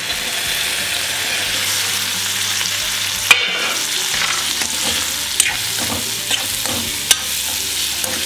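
Amla pieces and green chillies frying in oil in a steel kadhai, a steady sizzle that swells as the lid comes off. A sharp metal clink comes about three seconds in, with a few lighter clinks and scrapes of a steel spoon stirring against the pan later on.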